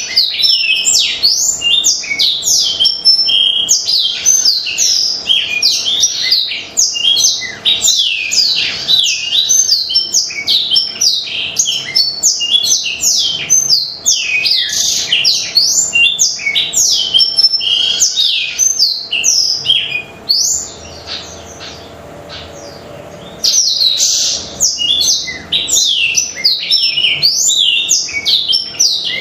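Black-throated canary (blackthroat) in full song: a long, fast run of high chirps, slurred notes and trills. It breaks off for about three seconds about two-thirds of the way through, then starts again.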